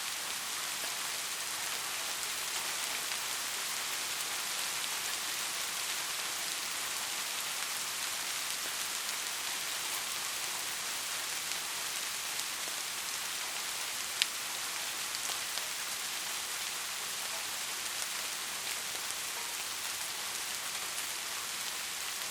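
Steady rain falling, with a dense, even hiss of drops. One sharp drop tick stands out about two-thirds of the way through.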